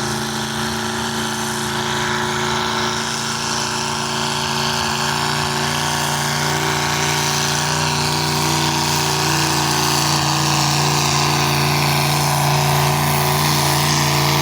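Engine of a pulling truck running hard at steady, high revs, its pitch holding level and its loudness slowly building.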